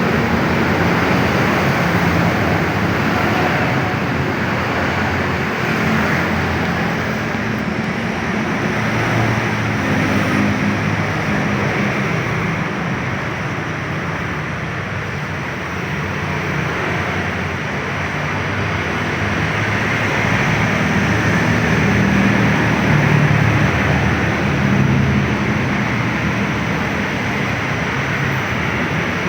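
Kawasaki KX 112 two-stroke motorcycle engine running steadily, its speed easing off slightly near the middle and picking up again later.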